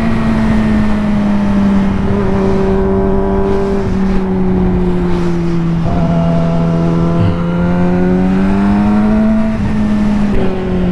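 Yamaha R6 inline-four engine under way, heard from the rider's helmet. Its pitch sinks slowly for about six seconds, climbs again as the bike pulls, then drops at a gear change near the end. Steady wind rush lies underneath.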